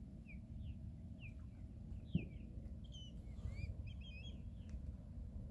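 Birds giving a series of short, quick, downward-slurred chirps, thickest around the middle, over a steady low rumble of wind and water. A single knock about two seconds in.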